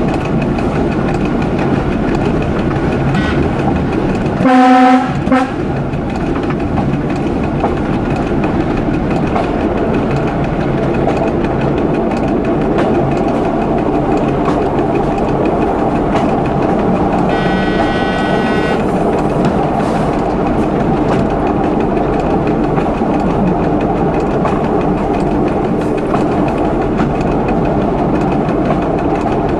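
Local train running along the line, heard from the driver's cab: a steady running rumble with wheel-on-rail noise. About four and a half seconds in comes one short horn blast. Around the middle a higher-pitched tone sounds for about a second and a half.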